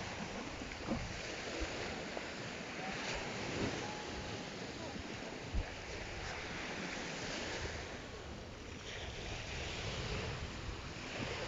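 Waves washing onto a sandy beach, swelling and fading every few seconds, with wind buffeting the microphone. One short thump about five and a half seconds in.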